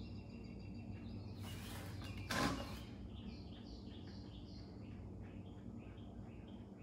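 A bird chirping over and over in quick short notes, about three a second, starting about three seconds in, over a faint steady low hum. Shortly before the chirping there is a brief rustle and a sharp scrape from handling the outboard's lower cowling.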